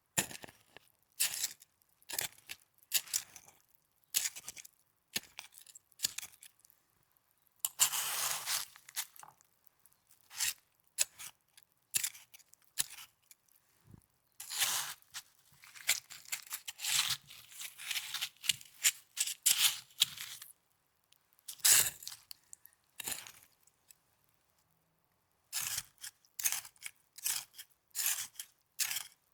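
Snow being crunched and scraped in a string of short, gritty crunches, with two longer rasping stretches, one about a third of the way in and one near the middle, and a short pause before a final run of quick crunches.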